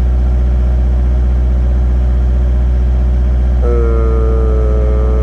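Kubota KX057-5 mini excavator's diesel engine running steadily. About three and a half seconds in, a steady pitched whine joins it for about two seconds.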